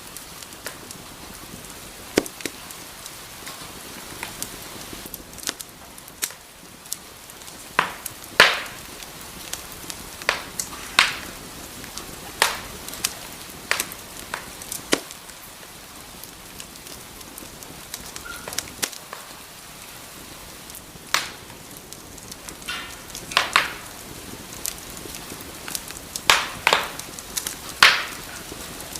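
Wood fire burning in a fireplace, crackling: a steady soft hiss broken by irregular sharp pops and snaps, a dozen or so of them loud.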